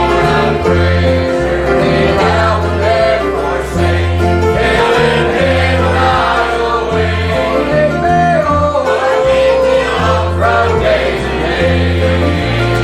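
A choir singing a gospel song with instrumental accompaniment, a bass line moving in long, even notes beneath the voices.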